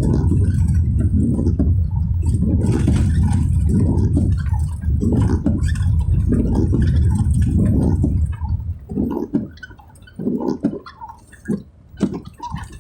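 Car driving on a wet road: a steady low rumble of road noise with splashing from the tyres. About eight seconds in it drops away and becomes intermittent, with scattered splashes.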